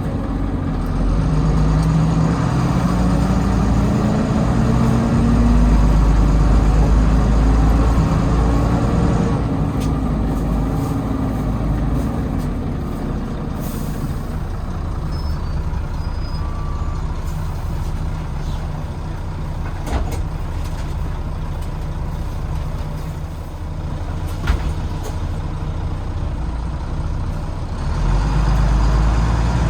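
Volvo B9TL double-decker bus with a Volvo D9B engine, heard inside the rear of the bus as it pulls away. A whine climbs in pitch over the first several seconds of acceleration, the kind of noise the uploader hears on every pull-off and cannot place (gearbox, cooling fan or axles). The bus then eases off, with a short air hiss about halfway through and a couple of knocks, and the engine builds again near the end.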